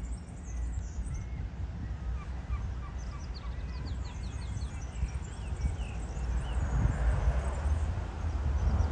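Small birds chirping and twittering in quick short notes, over a steady low rumble that grows louder near the end.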